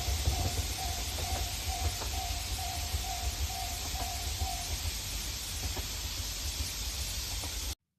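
Steady low rumble and hiss of a Tobu Spacia X limited express train pulling out of the station, with a repeating electronic tone sounding about twice a second that stops about four and a half seconds in. The sound cuts off abruptly near the end.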